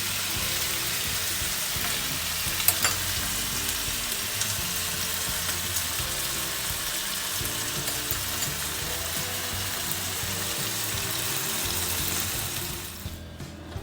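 Chicken pieces sizzling in freshly added oil, a steady frying hiss with one sharp tap about two and a half seconds in. The sizzle drops away abruptly near the end.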